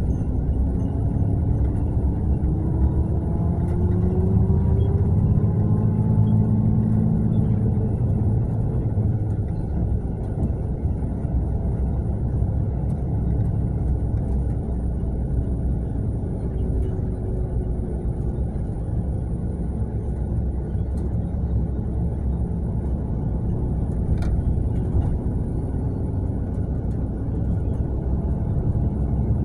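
Mercedes-Benz long-distance coach running: a steady low rumble of diesel engine and road noise, with the engine note rising in pitch as it speeds up a few seconds in.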